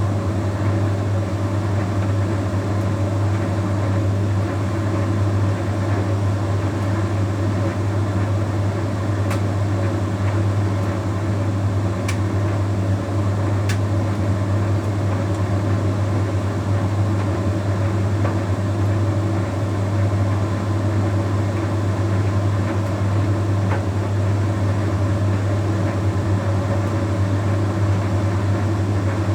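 Bosch Series 6 heat pump tumble dryer running mid-way through its drying cycle: a steady low hum under a constant whir as the drum turns. A few faint ticks sound now and then.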